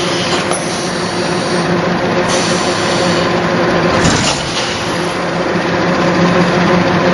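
Factory machinery running with a steady, multi-toned hum under a constant noisy wash, and a short hiss about four seconds in.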